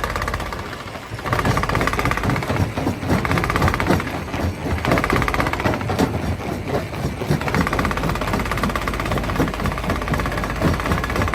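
Stone crusher running: a steady mechanical din with constant, irregular knocking and clattering of rock. It dips briefly about a second in, then runs on at full level.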